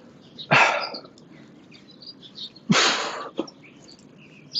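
Forceful breaths blown out hard through the mouth, one short burst about every two seconds in time with the exercise reps, with faint bird chirps in between.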